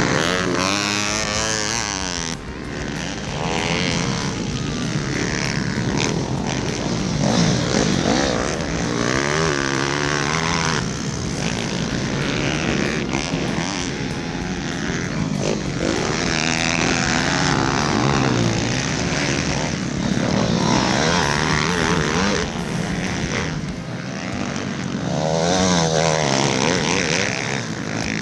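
Pit bike engines revving hard, the pitch climbing and dropping again and again as the bikes accelerate, shift and back off.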